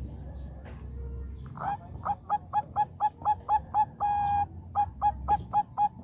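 Zebra dove (perkutut) cooing: a quick run of short, evenly repeated notes, about four a second, broken by one longer held note about two-thirds of the way in, then more short notes.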